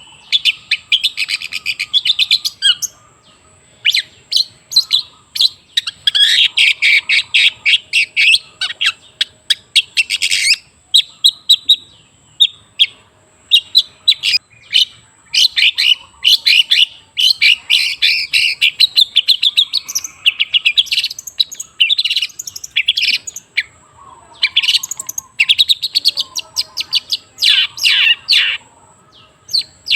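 Long-tailed shrike singing in rapid chattering phrases a few seconds long, with short pauses between them: a lure song used to set caged shrikes singing.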